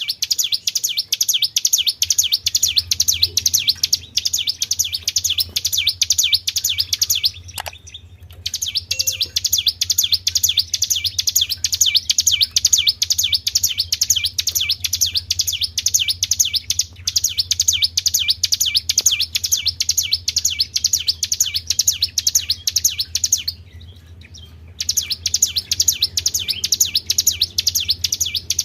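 Small songbird singing a fast, very regular high-pitched trill of rapidly repeated notes. It breaks off briefly about a quarter of the way in and again near the end. A faint steady low hum runs underneath.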